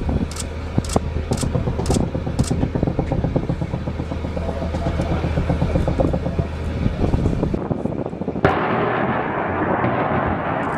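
AH-1 Cobra attack helicopter running, with a dense run of rapid gunfire over the steady hum of its engine and rotor. Sharp cracks come about twice a second in the first couple of seconds. About eight seconds in, the sound gives way to a broad hissing rush.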